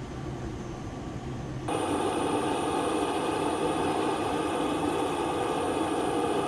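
Steady aircraft engine noise. About two seconds in it jumps louder and takes on a high, steady whine over a dense rumble, then stops abruptly.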